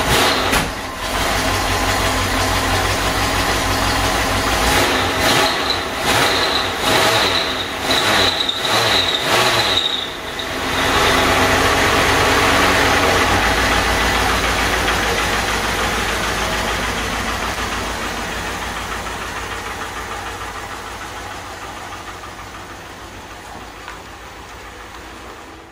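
Jeep Grand Wagoneer's 360 V8 engine running with uneven revs, then pulling away, its sound fading steadily over the last ten seconds or so as it drives off.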